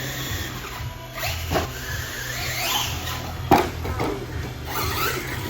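Electric motor of an RC monster truck whining as the truck drives, rising and falling in pitch with the throttle. There are two sharp knocks, about one and a half and three and a half seconds in.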